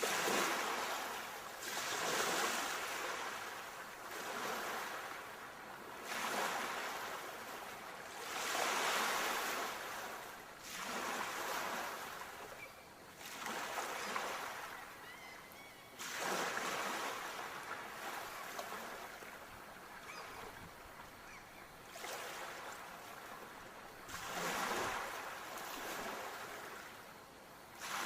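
Ocean waves breaking and washing up the shore, each one a swelling hiss that rises and falls every two to three seconds, with a calmer spell of softer wash past the middle.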